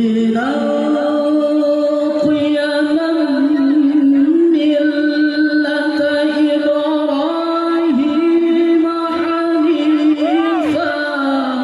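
A male qari reciting the Quran in a high voice, holding one long melismatic note that climbs in a few steps, with a slight waver in pitch.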